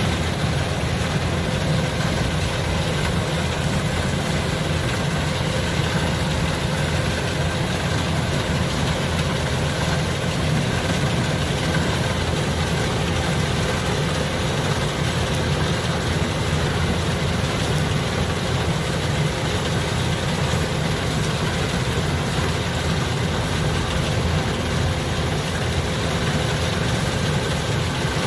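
Kubota DC-105X combine harvester's diesel engine running steadily at an even pace, a constant low drone with no change.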